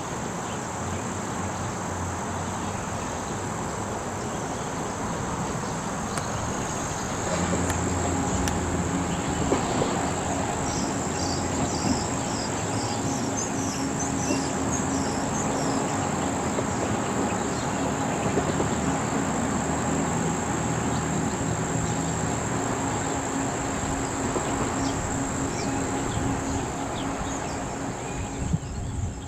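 Steady chorus of crickets and other insects, a continuous high-pitched trill, over the low hum of an engine running that grows louder about seven seconds in.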